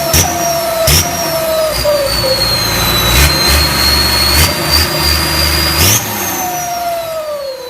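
Turbocharged engine with a loud exhaust being revved: a couple of quick throttle blips, each with a sharp burst and a rising turbo whistle, then held on the throttle for about three seconds with a steady high whistle. About six seconds in the throttle is released and the turbo whistle winds down.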